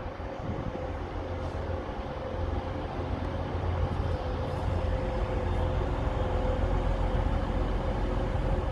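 TransPennine Express Class 185 diesel multiple unit approaching along the platform. A low rumble and a steady whine grow louder as it draws nearer.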